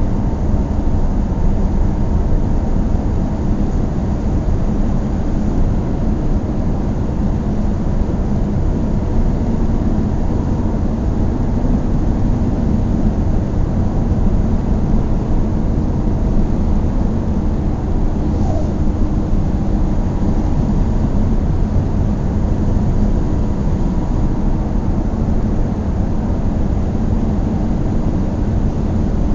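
A car driving at a steady speed: constant engine and road noise with a faint steady hum, unchanging throughout.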